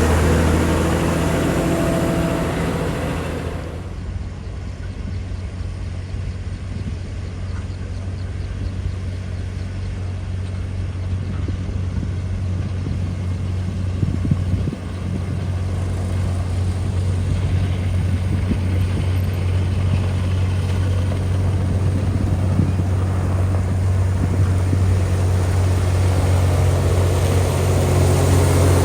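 Heavy diesel engine of earthmoving road-construction machinery running under steady load, a low drone. It drops back about four seconds in and builds again toward the end, with one short knock about halfway through.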